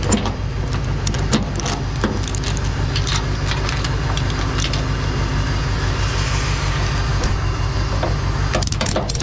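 A truck engine idling steadily, with irregular metallic clinks and clanks over it, as a towed truck is being chained down on a rollback bed.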